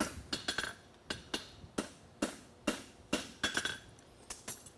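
Forging hammer striking a hot steel horseshoe bar on an anvil, a steady run of clanging blows about two a second with lighter taps between them, each one ringing briefly. The farrier is shaping and locking in the heel of the shoe.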